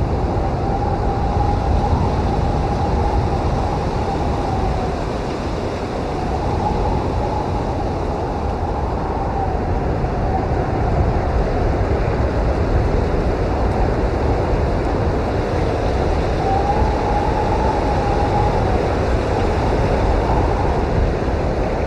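Blizzard wind blowing hard and steadily, a deep rumble with a faint whistling howl that rises and falls a few times.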